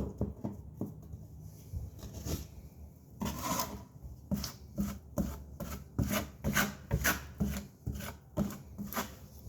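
Putty knife spreading and scraping joint compound over paper tape on drywall. A few scattered strokes give way, about three seconds in, to a steady run of short scrapes, about two a second.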